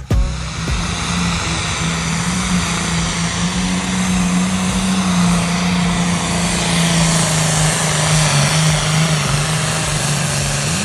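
A competition puller's engine running flat out through a pull: a loud, steady drone over a heavy hiss, with a brief dip in pitch about eight seconds in.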